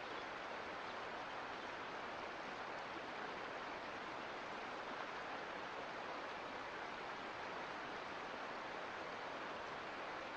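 Mountain creek water flowing steadily, an even hiss of running water with no breaks.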